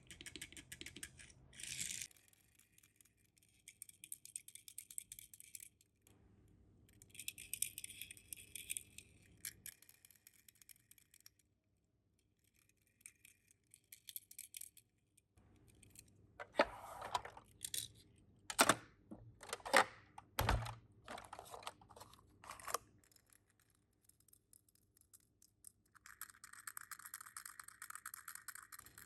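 Small die-cast toy cars being handled, rattling and clinking against each other, in bursts with short gaps, and a run of sharp knocks about two-thirds of the way through.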